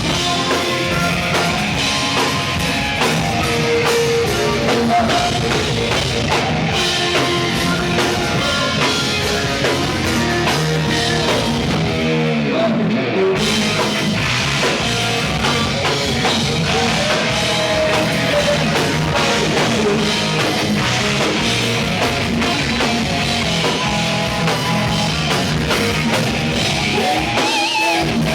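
Heavy metal band playing: distorted electric guitar, bass and a drum kit with cymbals, loud and steady, with a swooping pitch glide and a brief drop in the cymbals about twelve seconds in.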